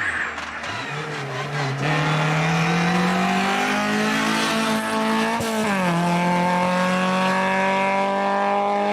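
Race car engine at full throttle, its pitch climbing slowly as the car accelerates, with a quick drop in revs for an upshift about six seconds in before it pulls on again.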